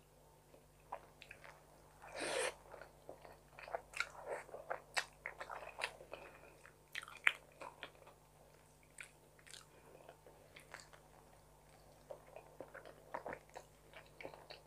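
Close-up chewing and mouth sounds of someone eating forkfuls of tuna carbonara, made up of many small irregular clicks and smacks, with one louder noisy burst about two seconds in.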